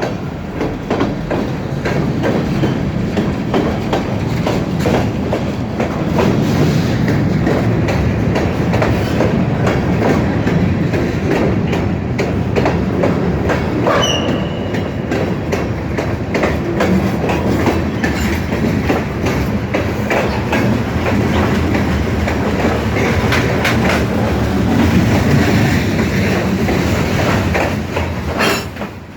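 Railroad cars of a Great Lakes Central train rolling past, wheels clicking steadily over the rail joints, with a brief high wheel squeal about halfway through.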